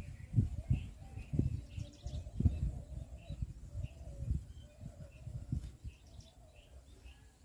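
Small birds giving short, faint chirps again and again. Irregular low rumbles and thumps are louder than the birds.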